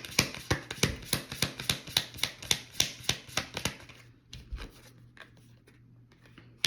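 Tarot cards being shuffled by hand: a quick, even run of card slaps, about five a second, that stops about four seconds in. A few faint card sounds follow.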